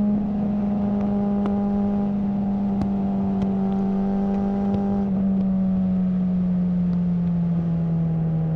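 Suzuki GSR600 inline-four engine running through a GPR Ghost aftermarket exhaust at steady revs, its pitch sinking slowly, with small drops in pitch at the start and about five seconds in.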